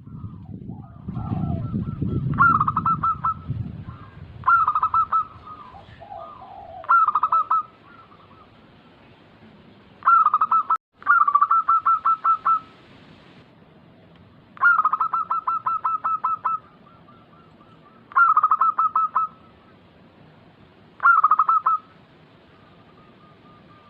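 Zebra dove (perkutut) cooing: about eight phrases of rapid staccato notes, each a second or two long, repeated every few seconds. A low rumble sits under the first few seconds.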